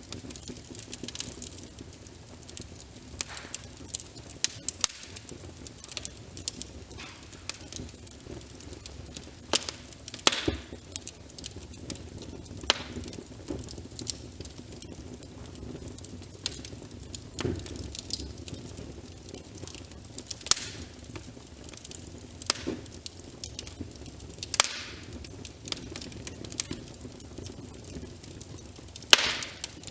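Wood fire crackling in a fireplace, with irregular sharp pops and snaps, a few of them loud, over a steady soft patter of rain.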